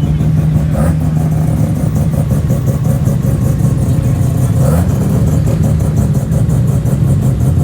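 A car engine running close by with a steady drone, revving up briefly a little past halfway through.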